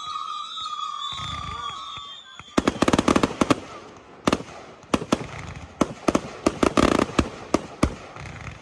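Fireworks display: a high steady whistle for about the first two and a half seconds, then rapid clusters of sharp bangs and crackles from bursting shells.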